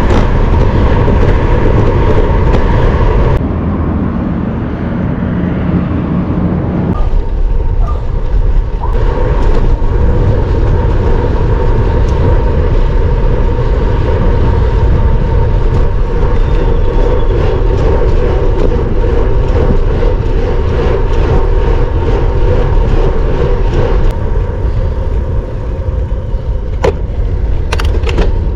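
Wind rushing over the microphone with road noise during a road bike ride, a loud steady rumble that changes abruptly a few times, with a few sharp clicks near the end.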